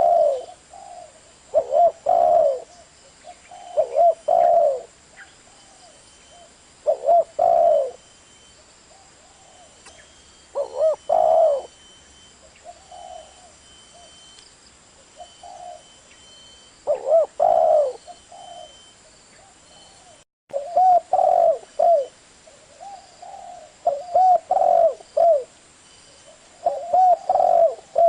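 Spotted dove cooing: a short phrase of several low coos every two to four seconds, with softer single coos in the gaps.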